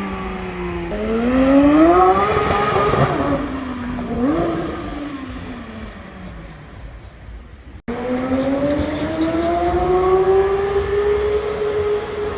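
Porsche 991.2 GT3 RS's naturally aspirated flat-six accelerating: the engine note climbs steeply about a second in, then falls away with a short blip of revs and fades. After an abrupt cut, a second loud run with a sustained engine note that rises slowly and holds.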